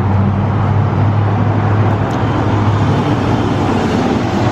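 Steady motor-vehicle noise: a low engine hum under road and traffic noise.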